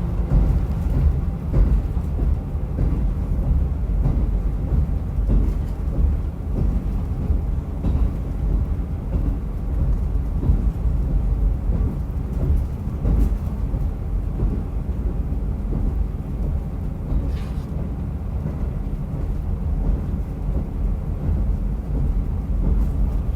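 Diesel railcar running along the line: a steady low rumble of engine and wheels on rail, with a few faint clicks along the way.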